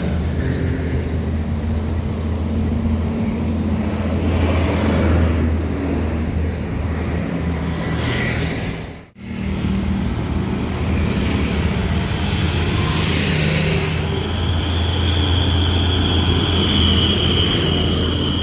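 Heavy trucks and road traffic passing, diesel engines running with a steady low drone, broken by an edit cut about nine seconds in. Over the last four seconds a steady high-pitched whine sounds above the engine noise.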